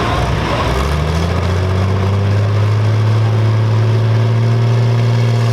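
Pulling-class tractor engine running hard, its pitch rising about a second in and then holding high and steady.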